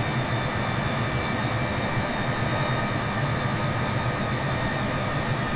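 Airbus A380 cabin noise in flight: a steady rush of airflow and engine drone with a low hum underneath and faint steady tones above, holding level throughout.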